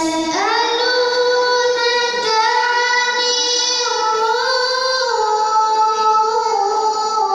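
A young girl reciting the Quran in the melodic tilawah style, drawing out one long ornamented phrase whose pitch steps up and down.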